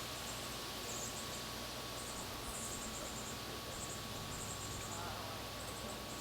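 Small birds giving very high, thin chirps in quick stuttering runs, a burst every half second to a second, over a steady background hiss with a faint constant whine.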